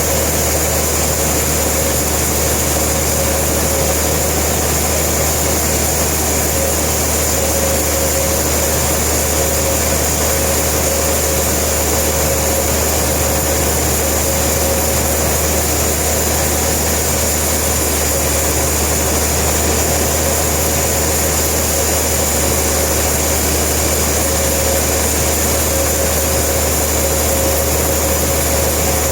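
Sawmill machinery running steadily: an engine drone with a constant hum and whine, holding an even note with no change in load.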